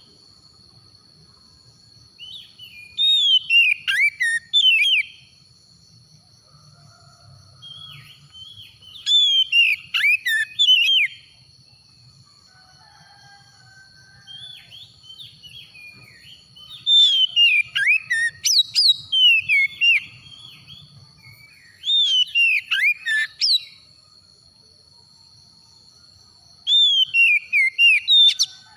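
Oriental magpie-robin singing in repeated bouts of rapid, swooping whistled notes, five phrases about two seconds long with short pauses between them. A faint steady high tone runs underneath.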